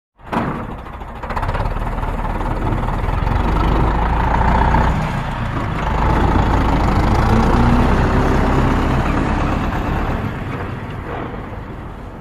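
A heavy vehicle's diesel-type engine running, cutting in suddenly out of silence as a steady low rumble and easing off slightly near the end.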